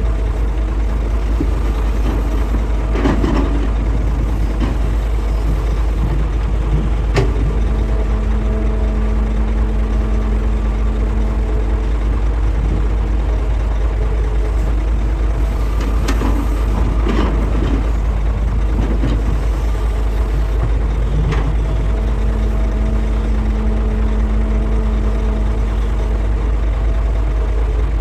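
Hitachi excavator's diesel engine running steadily, with a few sharp clanks and scrapes. A steady low hum comes in twice for a few seconds at a time.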